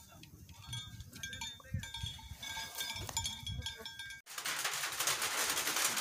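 Faint outdoor sounds around grazing cattle, with a few soft low thumps. About four seconds in, this cuts off abruptly and a loud, even patter starts: rain drumming on a corrugated metal roof, heard from inside the shed.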